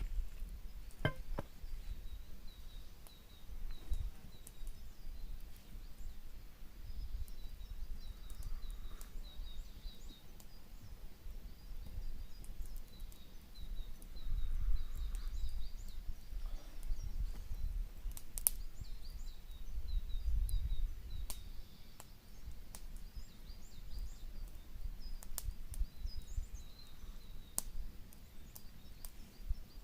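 Small birds chirping repeatedly over a low rumble, with scattered sharp clicks.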